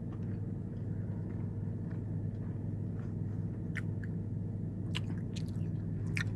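A person biting and chewing Chester's fried chicken tenders, with a few short, sharp clicks from about four seconds in, over a steady low hum.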